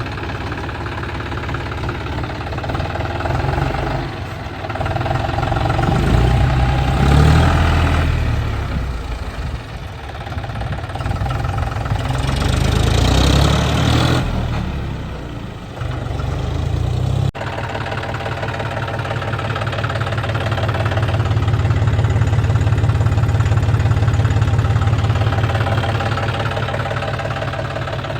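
Tractor engine running, swelling in level twice and easing off, then a sudden break followed by a steady run that slowly builds and fades back.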